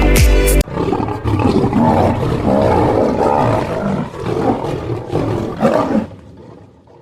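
Music cuts off about half a second in, and a large animal roars in a long, rough, pulsing series that fades out near the end.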